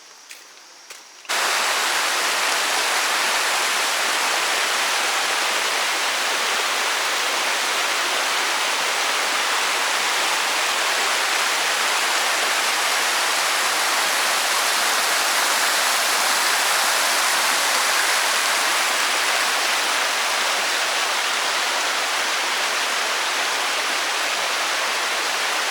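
Steady rushing of stream water over rocks, cutting in suddenly about a second in.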